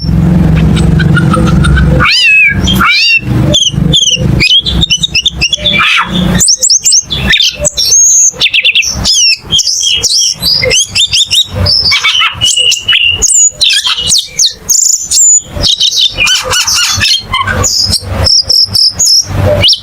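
Cucak keling singing vigorously and without pause: a fast, varied run of sharp chirps, rising and falling whistles and trills, over a low rumble in the first couple of seconds.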